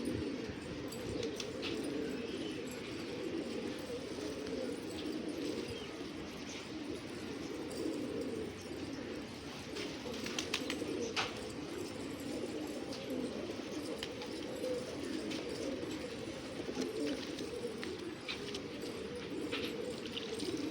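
Several domestic pigeons cooing without pause, their low calls overlapping, with a few faint sharp clicks scattered through.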